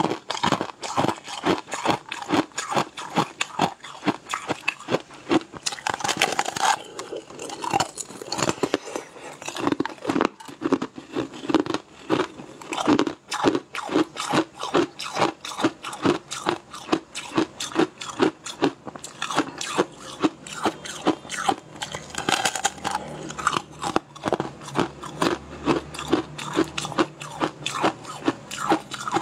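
Crunchy chewing of a crisp translucent blue-purple sweet, close to a clip-on microphone, with steady crunches about two to three times a second.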